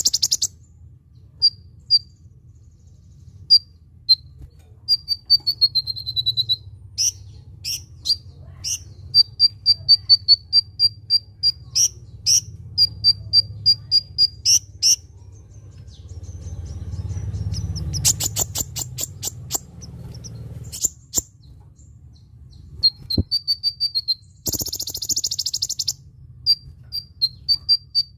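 A small sunbird of the kind sold in Indonesia as 'kolibri ninja' sings high, thin chirps. Its song includes a descending trill about five seconds in and a fast string of repeated chirps in the middle. Shrill, cricket-like buzzing breaks in at the start and again near the end.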